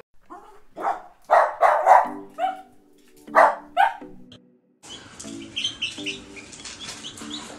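Puppies yipping and barking in a quick series of short, high calls, loudest in the middle. About five seconds in, they give way to a chick peeping in short high chirps. Soft background music with repeating notes runs under the second half.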